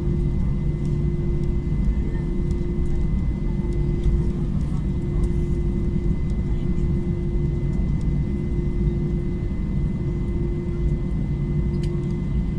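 Airbus A321-200 running with a steady low rumble and an even hum, its power neither rising nor falling, with a few faint clicks.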